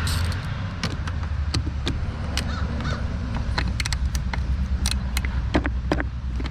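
Irregular sharp metallic clicks of a wrench and socket working on a brake master cylinder bolt as it is broken loose, over a steady low hum.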